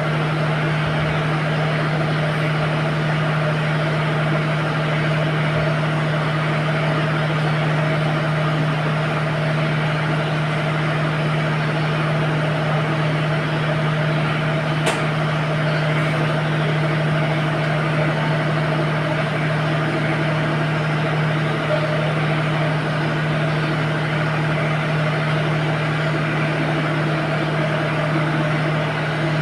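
An engine running steadily with a constant hum, a single sharp click about halfway through.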